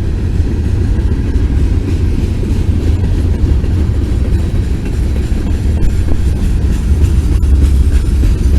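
Loaded freight cars rolling past at close range at low speed: a steady low rumble of wheels on rail, with a faint clickety-clack of the wheels.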